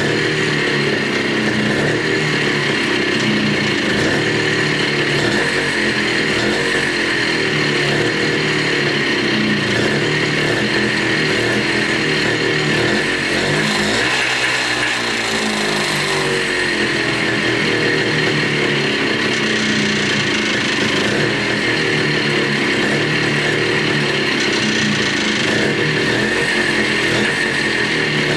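Montesa Cota 247 trials motorcycle's single-cylinder two-stroke engine running steadily, its revs dipping and picking back up about halfway through. The engine is running again after 42 years laid up.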